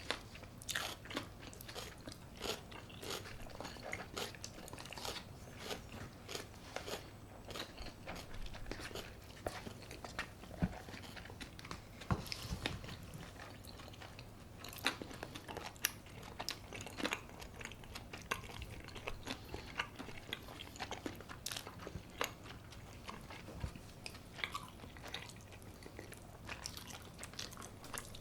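Close-miked crunching and chewing of crispy brown-rice-coated baked chicken, with irregular crisp bites one after another.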